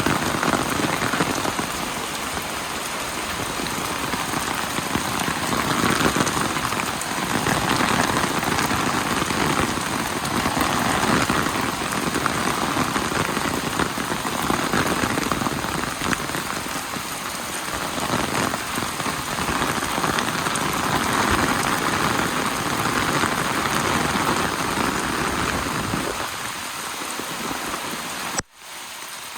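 Steady rain falling, its hiss swelling and easing in slow waves. About a second before the end it breaks off suddenly and comes back quieter.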